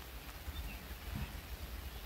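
Outdoor ambience: a few faint, short bird chirps over an uneven low rumble and a steady hiss.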